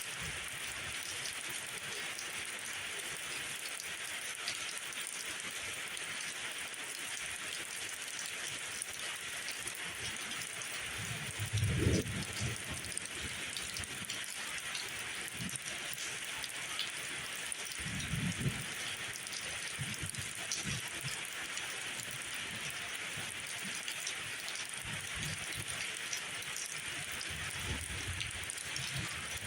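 Steady rain falling, an even hiss throughout, with a few brief low rumbles: the loudest a little before halfway through, another about six seconds later.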